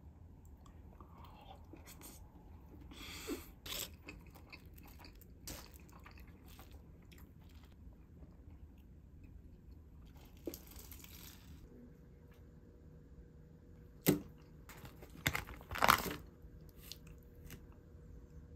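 Close-up eating sounds: chewing pepperoni pizza with crisp fries on top, with scattered crunches. The loudest crunches come in a short cluster near the end.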